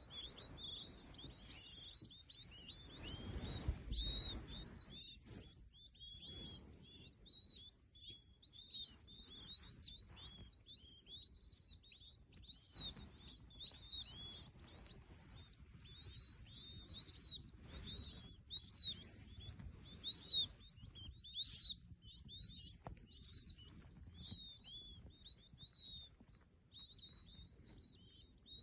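A bird chirping over and over, short arched high chirps about once a second, with a low rumble about three to four seconds in.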